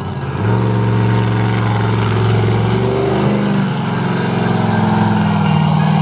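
A truck engine running at a steady, low speed, coming in about half a second in and holding with small shifts in pitch.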